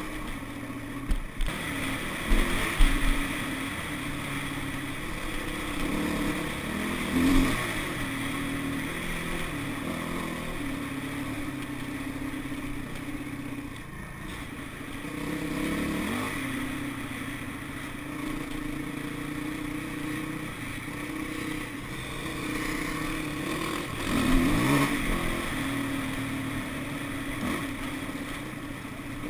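Dirt bike engine running on the move, its pitch dropping and climbing again a few times as the rider eases off and opens the throttle, with a few jolts.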